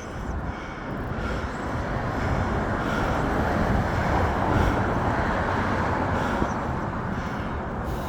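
Street traffic noise: a vehicle passing, swelling to a peak about halfway through and easing off.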